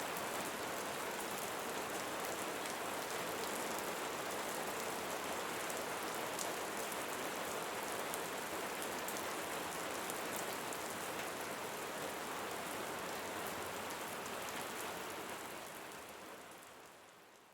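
Steady rainfall, a dense hiss of drops pattering on a surface, fading out over the last few seconds.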